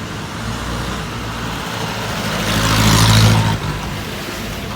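Road vehicle engine running with a steady low hum, while a hiss swells to its loudest about three seconds in and then drops off abruptly.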